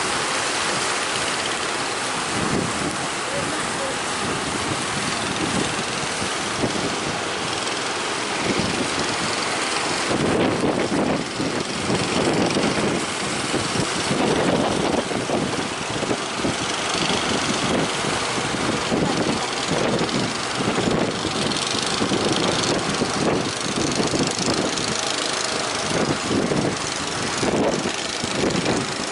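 Wind buffeting the microphone over rough sea and waves, with a boat's engine running underneath. The engine's quick low thudding grows more prominent from about ten seconds in.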